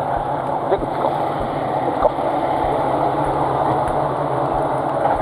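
Local train standing at the platform with its engine idling in a steady hum, with a couple of light clicks about a second and two seconds in.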